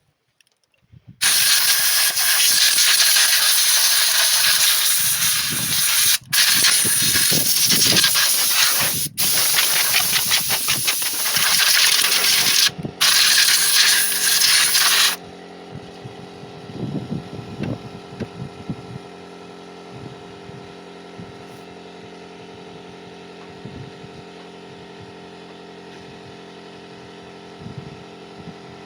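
Compressed air hissing from a blow gun in long blasts, briefly interrupted three times, then stopping about 15 seconds in. A steady, quieter hum with a few low tones continues afterwards, with occasional soft knocks.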